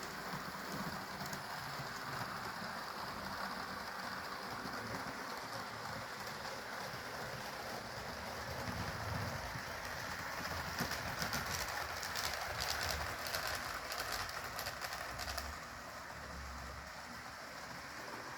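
HO scale model train, a Walthers Trainline GP15-1 diesel with freight cars, running laps on sectional track: a steady rattling rush of wheels and motor. A stretch of quick clicks from about eleven to fifteen seconds in, as the wheels pass over rail joints or turnouts.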